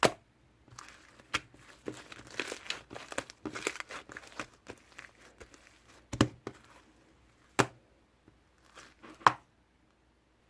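Slime being squeezed and pressed by hand: crackling and squishing, with several sharp pops.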